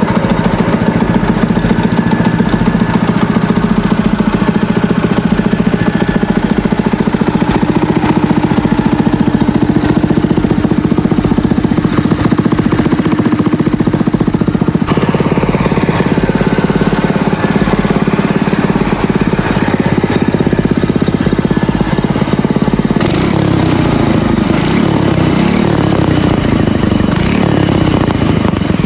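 Newly fitted go-kart engine running on its first start, a steady engine note that changes pitch about halfway through, then rises and falls repeatedly near the end as it is revved.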